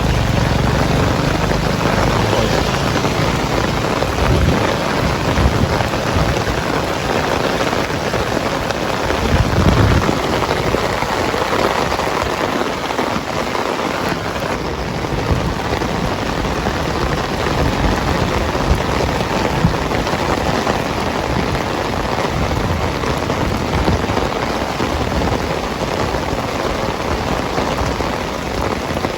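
Heavy rain pouring steadily on surfaces, a dense continuous hiss of drops, with a brief deeper rumble about ten seconds in.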